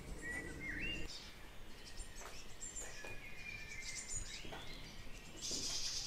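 Wild birds calling faintly: short whistled chirps and gliding notes here and there, over low outdoor background noise.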